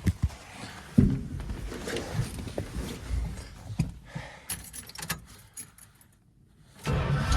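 Knocks, clicks and a jangle of keys as the driver gets into the Dodge Ramcharger, then near the end its engine cranks and catches on a cold start, helped by gas squirted down the carburetor.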